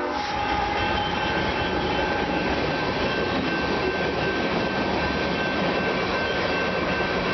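Freight train rolling past: a steady rumble and rattle of wheels on rail, with faint thin high tones held over it.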